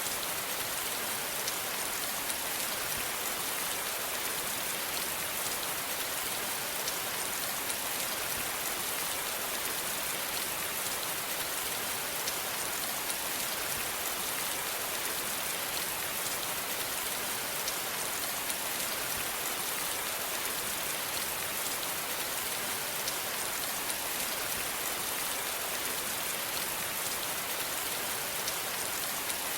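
Steady rain falling, an even hiss with the fine patter of drops on a surface.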